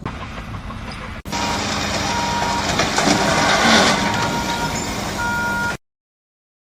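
Loud, steady machinery noise with intermittent high electronic beeps like a reversing alarm, starting abruptly about a second in and cutting off suddenly near the end.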